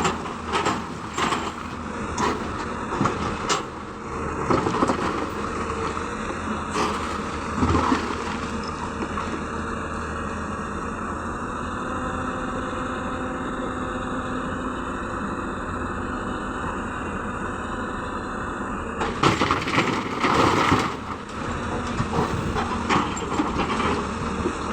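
Hyundai excavator's diesel engine running steadily, with a string of sharp knocks and clanks in the first several seconds and a loud rushing clatter about two-thirds of the way through.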